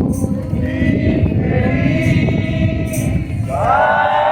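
Group of people singing a worship chorus together, many voices at once.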